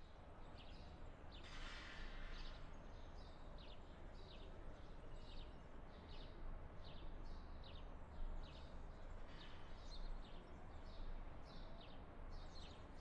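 Birds chirping in short, quick calls repeated about twice a second, over a low steady rumble of outdoor background noise.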